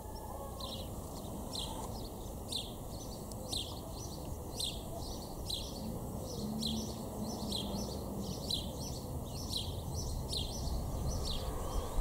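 A bird chirping over and over, short high chirps about two a second.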